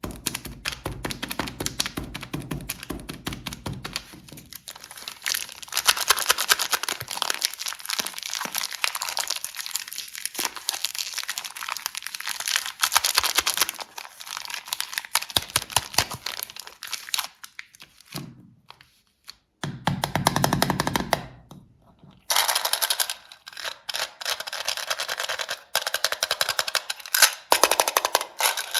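Plastic candy wrappers crinkling and crackling in dense, rapid runs, with short pauses between handlings.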